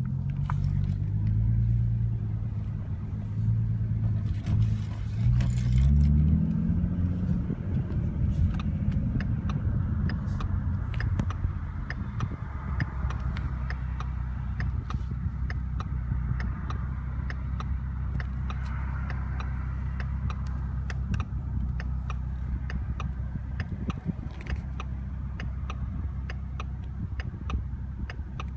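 Ford Mustang 3.7-litre V6 with its muffler deleted, heard from inside the cabin with the windows down: the exhaust note rises as the car accelerates in the first few seconds, then settles into a steady low drone while cruising. Wind and road noise and light clicking rattles sit over the drone.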